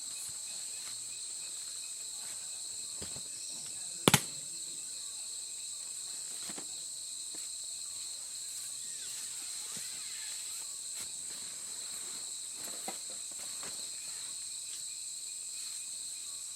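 Steady insect chorus, a continuous high-pitched trilling drone. A single sharp double click about four seconds in, and a few faint knocks later.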